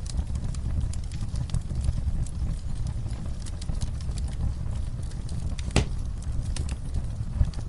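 Fire crackling in a fireplace: a steady low rumble of the flames with frequent sharp pops and snaps, one louder pop near the end.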